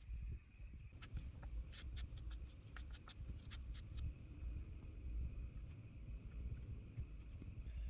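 A run of light clicks and taps from hands handling craft materials and small objects on a tabletop, thickest in the first half, over a faint steady hum.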